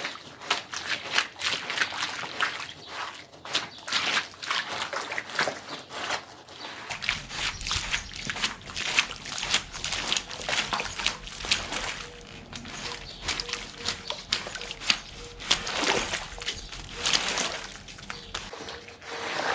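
Wet carpet being washed: quick, irregular scrubbing strokes on the soaked pile, with water sloshing and trickling.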